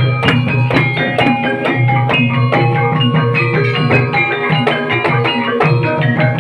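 Gamelan-style music for an ebeg dance: struck, ringing tuned bars play a busy melody over regular drum strokes and a deep, pulsing low tone.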